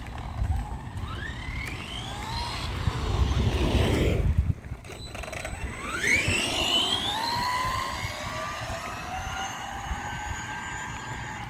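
Electric motor and drivetrain of a 3S RC 4x4 truck whining, rising in pitch twice as it accelerates and then holding a steady whine. Tyres rumble on pavement under it.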